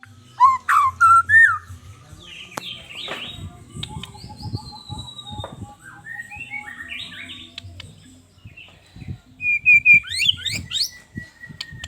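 White-rumped shama (murai batu) singing: a varied run of whistled phrases, rising and falling notes and quick chirps. It is loudest in the first couple of seconds and again about ten seconds in, and it ends with a long, slightly falling whistle.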